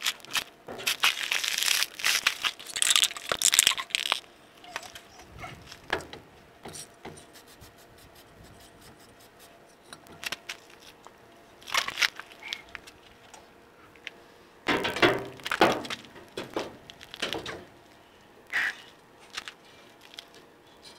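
Hand-tool work on a pickup's leaf spring: irregular bursts of scraping and clattering, with the longest run in the first few seconds and another about fifteen seconds in.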